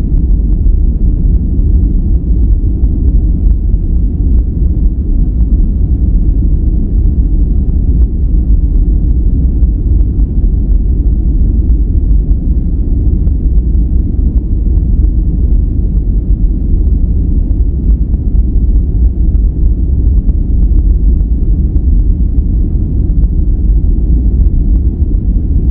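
Steady relaxation noise track, deep and rumbling, with its strength in the bass and no high hiss.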